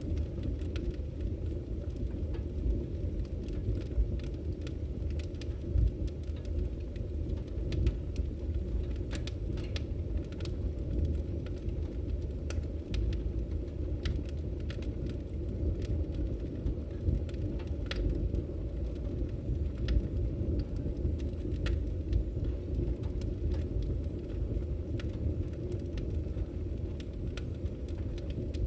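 Wood fire burning in a fireplace: a steady low rumble of flames with many scattered, sharp crackles and pops.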